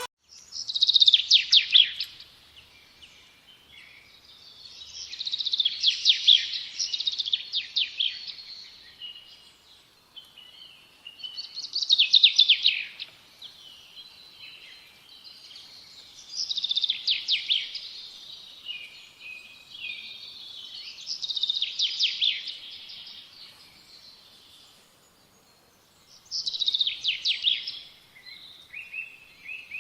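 Songbird singing, repeating a phrase of rapid high notes every few seconds, six phrases in all.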